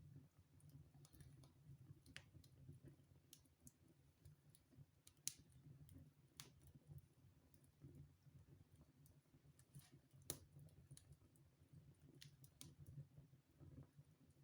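Wood fire in a fireplace crackling quietly: irregular sharp pops and snaps, the loudest about five and ten seconds in, over a faint low rumble.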